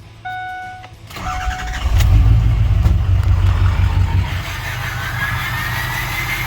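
A dashboard warning chime sounds, then a 6.0 Powerstroke V8 turbo diesel cranks and fires about two seconds in, running loud through straight pipes. It settles toward idle while the whistle of its KC 10-blade turbo rises. The owner puts the rough start down to injector stiction.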